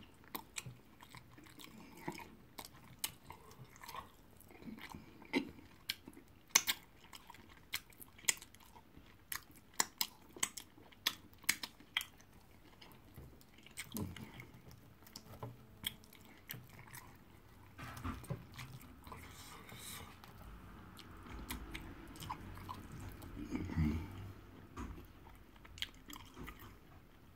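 Close-miked chewing of yam fufu and egusi soup eaten by hand, with frequent sharp mouth smacks and clicks between quieter stretches of chewing.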